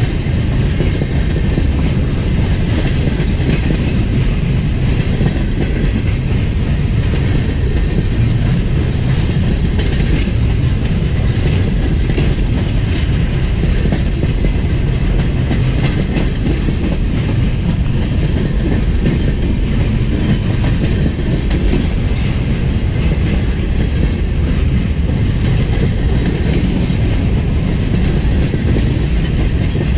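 A mixed freight train's tank cars and boxcars rolling past close by: steel wheels on rail in a steady, loud rumble that holds throughout.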